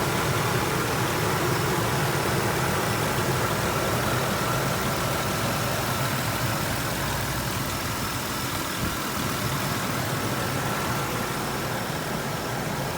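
Ford F-150's 4.2-liter V6 engine idling steadily. The owner describes it as running a little rough and is pretty sure there is a misfire on a cylinder or two.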